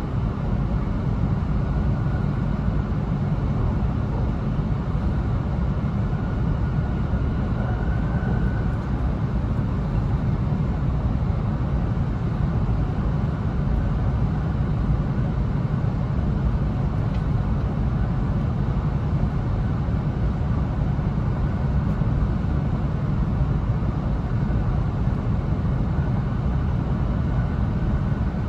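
Steady running noise inside the passenger cabin of an E2-series Shinkansen at speed: a deep, even rumble of the train on the track that holds the same level throughout.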